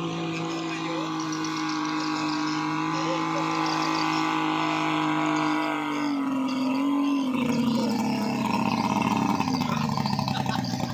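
A 40 hp outboard motor running steadily with a humming drone. Its pitch dips about six seconds in and falls again near the end.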